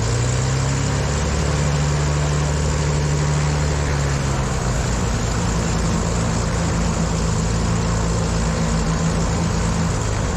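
Twin turbocharged piston engines of a Cessna T310R running at low power on the ground: a steady propeller-and-engine drone whose pitch shifts slightly a couple of times. The engines are being run rich at idle to cool the turbochargers before shutdown.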